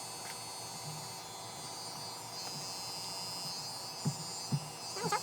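Cordless electric hair clippers running with a steady electric hum. Two short soft bumps come about four seconds in.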